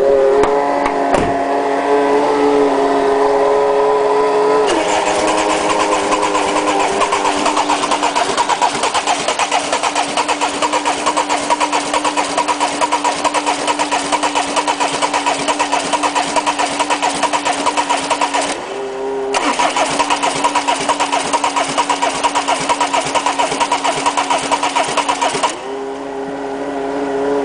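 Peugeot 306 1.9 turbo diesel being cranked over on its starter without catching: a cold diesel that won't start. A steady whine runs throughout, with a fast churning rhythm over it that breaks off briefly past halfway and stops near the end.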